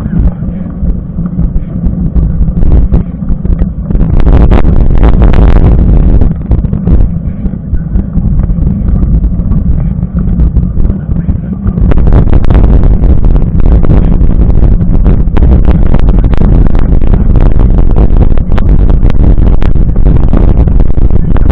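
Heavy wind buffeting and low rumble on a moving action camera's microphone, with many small rattles and knocks from rough riding. It grows louder and busier about twelve seconds in.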